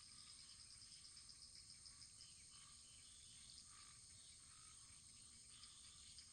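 Near silence: a very faint wood fire burning in a fireplace, with a steady high hiss and a few soft crackles. A rapid high-pitched trill runs through the first two seconds.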